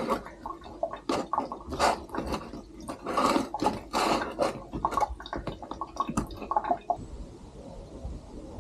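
Water splashing and dripping in short, irregular spurts for about seven seconds, then stopping, leaving a faint hiss.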